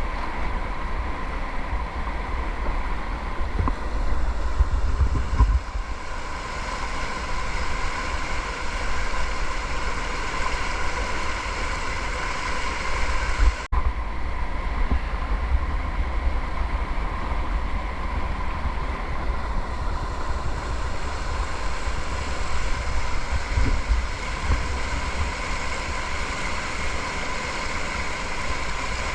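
Rushing whitewater of a river in spate as a kayak runs down it, with wind buffeting the microphone; the sound breaks off for an instant about halfway through.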